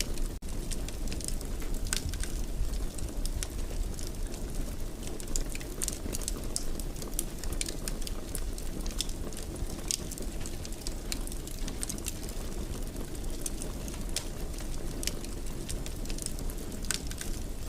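Wood fire crackling in a fireplace: a steady low rumble of flames with frequent sharp pops and crackles. The sound drops out for an instant about half a second in.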